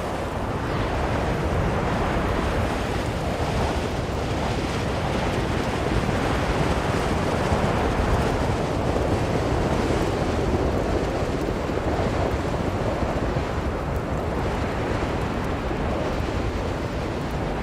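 Strong blizzard wind blowing in a steady rush, swelling a little and easing again over several seconds.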